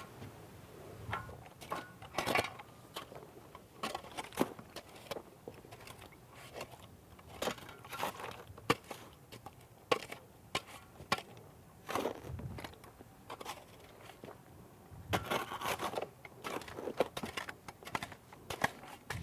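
Damp sand-cement bedding mix being worked and spread, giving irregular gritty scrapes and crunches.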